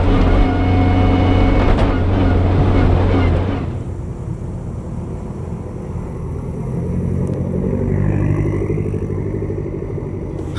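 Lancia Delta Integrale rally car's turbocharged four-cylinder engine running loud and steady, then dropping sharply about three and a half seconds in to a much quieter low running that rises a little for a few seconds.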